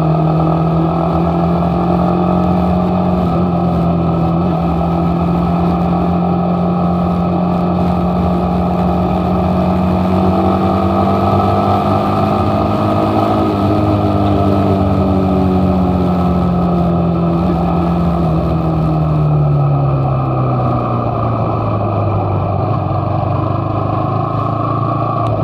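Motorcycle engine running steadily at cruising speed, its pitch falling smoothly near the end as the bike slows down.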